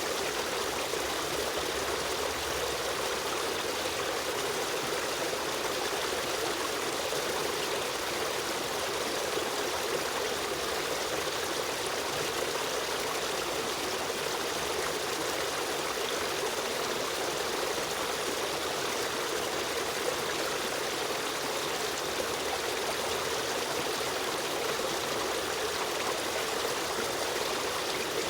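A river stream running steadily, a constant even rush and trickle of flowing water.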